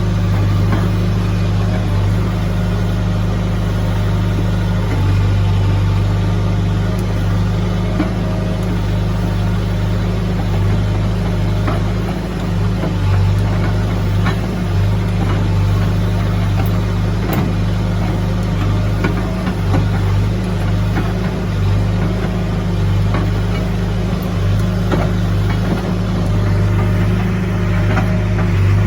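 CASE backhoe loader's diesel engine running steadily, with a deep hum that shifts slightly in pitch now and then. Scattered short clanks and knocks sound over it.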